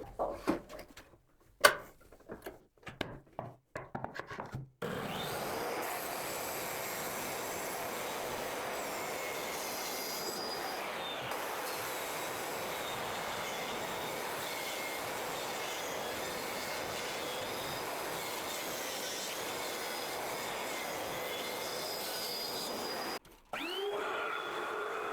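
A few scattered knocks of wood being handled, then about five seconds in a power saw starts cutting wooden board, a steady rushing noise with a faint wavering whine that stops suddenly near the end.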